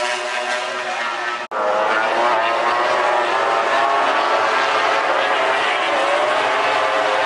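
MotoGP racing motorcycle engines running at high revs, with a sudden break in the sound about a second and a half in, after which the engines of several bikes are heard together.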